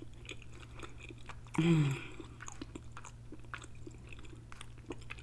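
Close-miked chewing of a mouthful of food with the mouth closed: soft, irregular wet clicks and smacks. About a second and a half in comes a short hummed 'mmm' that falls in pitch.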